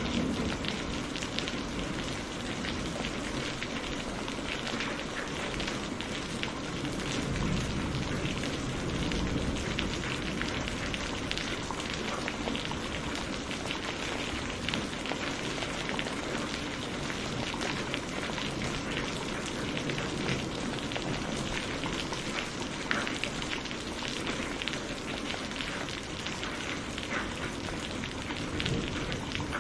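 Steady rain falling, an even hiss with many scattered drop taps.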